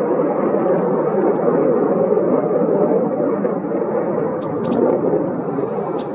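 F-35A's single Pratt & Whitney F135 turbofan giving a loud, steady jet noise as the fighter flies its display.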